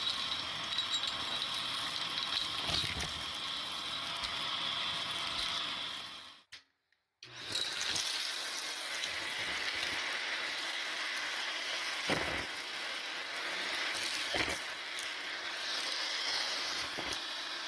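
Vacuum cleaner running with a steady whine, with a few knocks and rattles as balloons are pulled against it. The sound drops out for under a second about six and a half seconds in.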